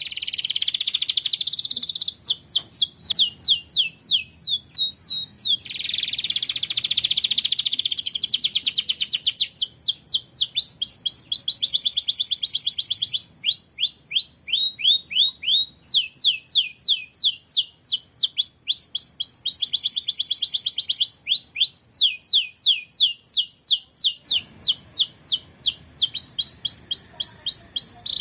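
Domestic canary singing a continuous song of fast trills, with long runs of quick repeated falling notes alternating with dense buzzy rolls, switching phrase every few seconds.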